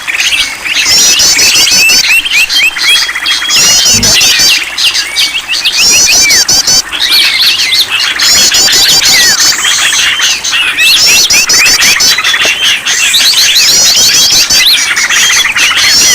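A dense mixed chorus of many small birds chirping, trilling and squeaking over each other, in a bird-lure recording made to set caged songbirds singing. Bursts of fast, high chirping recur every second or two.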